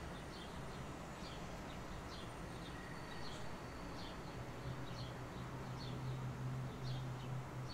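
Small birds chirping repeatedly in short calls. A low steady hum comes in and grows louder from about halfway through.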